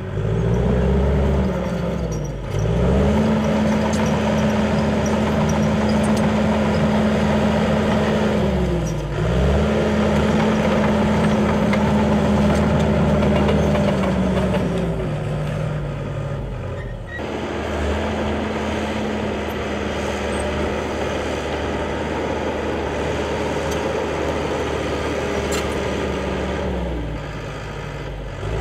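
Small pit-bike engine revving up and holding high revs, then easing off and climbing again about twice. There is an abrupt cut partway through to steadier running.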